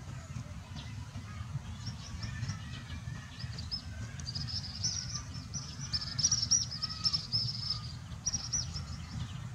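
A small bird twittering in quick runs of short, high chirps, busiest and loudest in the middle stretch, over a steady low rumble.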